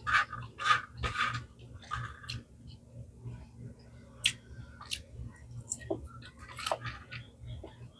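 A person chewing a mouthful of food close to the microphone: a run of wet chewing sounds in the first two and a half seconds, then sparser sharp mouth clicks.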